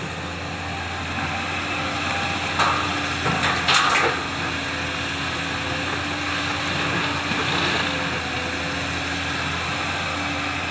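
Excavator diesel engine running steadily. A little under three seconds in comes a burst of clattering and crunching impacts that lasts about a second and a half.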